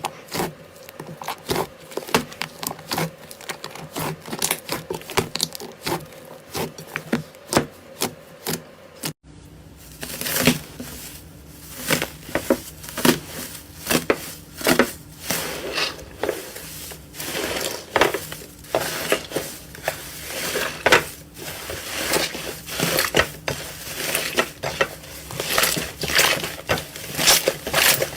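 Slime being squeezed and worked, giving rapid crisp clicks and pops. About nine seconds in the sound cuts to another clip, where the clicking is denser and louder.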